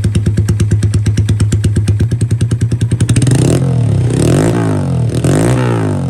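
Honda Grom 125 cc single-cylinder engine idling with an even pulse, then revved in about three throttle blips from about three seconds in, the revs falling back after each one: it no longer hangs on the throttle.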